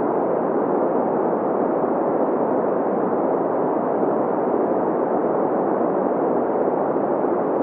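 Green noise: steady synthetic noise centred in the middle range, with little deep bass or high hiss, and no change throughout.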